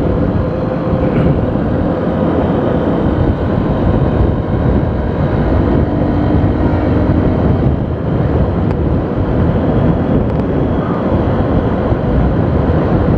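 Steady road and wind noise of a car travelling at highway speed, around 100 km/h.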